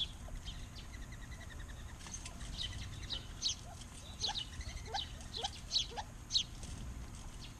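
Several small backyard birds chirping: many short, sharp, high chirps, a fast trill about a second in, and a few lower calls, over a steady low rumble.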